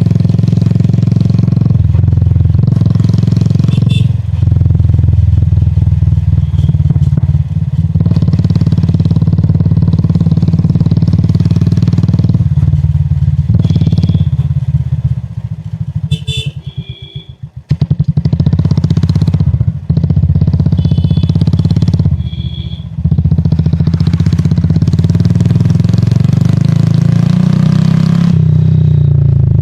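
A 2019 Royal Enfield Classic 350's single-cylinder engine running while the bike rides along. About halfway through it drops off throttle to a low, slow beat with each firing stroke heard separately, then picks up again and rises in pitch toward the end as the bike accelerates.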